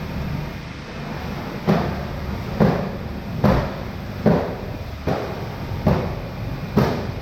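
A steady, low rumble with regular knocks about one a second, starting about a second and a half in.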